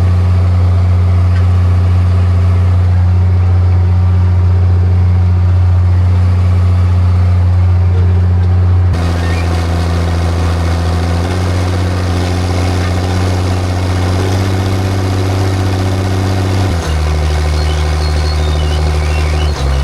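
Farm tractor engine running steadily and loud, its pitch shifting in steps several times in the second half.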